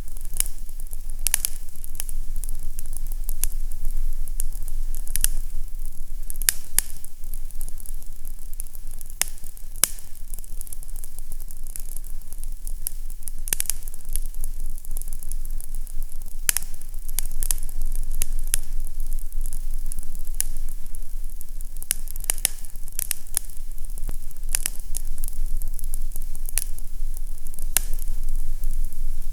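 Fireplace fire crackling, with irregular sharp pops scattered over a steady hiss, above a low steady rumble.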